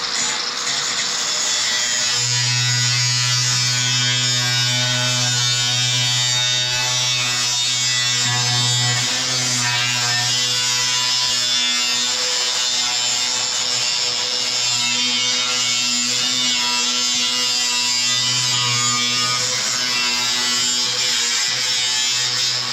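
Electric power tool buzzing steadily for a long stretch as it cuts sheet roofing tin, starting about two seconds in.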